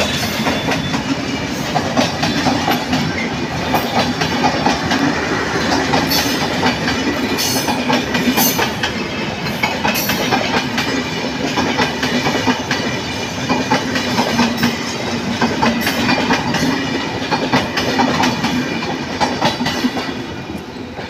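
Bangladesh Railway intercity passenger coaches rolling past, wheels clattering over the rail joints in a steady clickety-clack; the sound eases off near the end as the last coach goes by.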